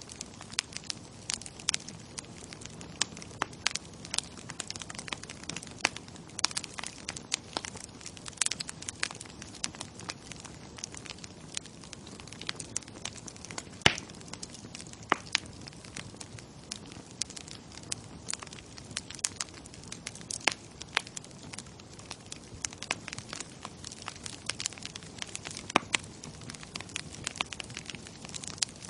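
Bonfire burning with a steady low hiss and many irregular crackles and pops, one sharper pop about halfway through.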